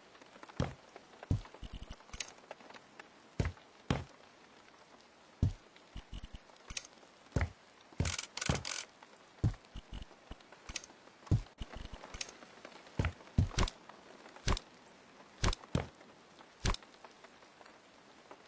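Irregular knocks, taps and scrapes of objects being handled and set down during hands-on work, roughly one a second, with a longer run of scraping around the middle.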